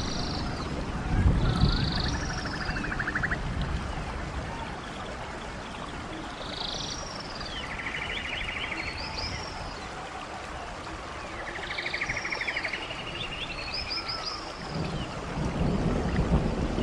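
Birds singing over the steady rush of a stream: short, repeated chirping calls and buzzy trills recur every couple of seconds. Low rumbles sound about a second in and again near the end.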